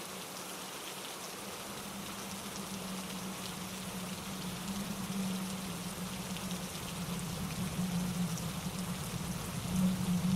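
Steady rain with fine pattering drops, mixed over the steady rush of a mountain stream tumbling over rocks. A low rumble grows louder toward the end.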